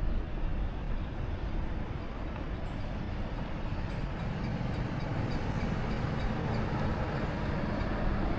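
A motor vehicle running nearby: a steady low rumble with a faint hum that grows stronger in the second half.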